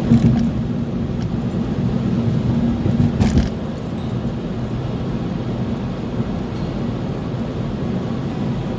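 Car driving with a steady engine and road rumble, with two brief knocks, one right at the start and one about three seconds in.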